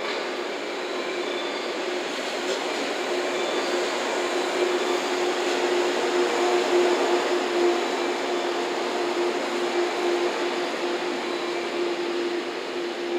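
Two-car JNR 115 series electric multiple unit running past, with the noise of its wheels and motors under a steady hum. It grows to its loudest about halfway through as the cars go by, then eases off slightly as the train moves away.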